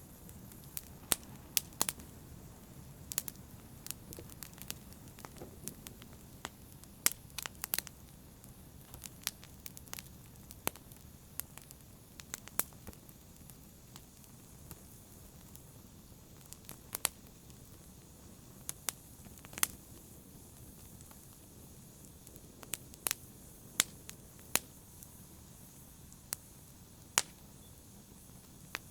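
Wood fire crackling in a fireplace: sharp, irregular pops and snaps, sometimes several close together, over a low, steady rumble.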